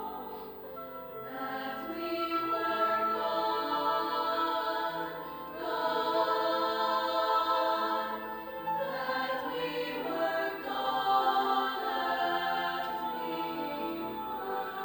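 High school choir singing held chords in several parts, swelling and easing in phrases of a few seconds, with a short dip about five seconds in.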